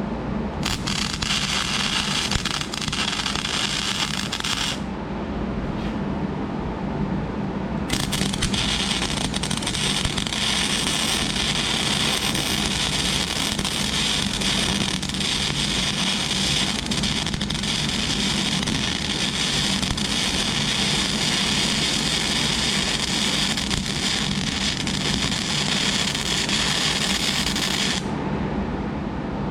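Flux-cored wire welder arc crackling and sizzling as beads are run on steel: a short weld of about four seconds, a pause, then one long steady weld lasting about twenty seconds. A steady low hum runs underneath.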